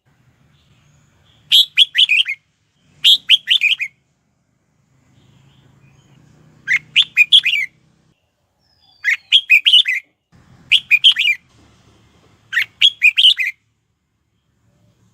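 Red-whiskered bulbul singing in short, quick phrases of several bright notes. The phrases come six times, a second or two apart, with a longer pause before the third.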